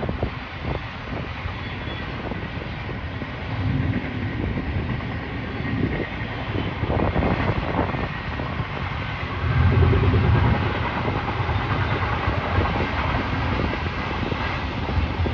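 Freight train passing, a steady rumble of wheels on rails that swells about ten seconds in.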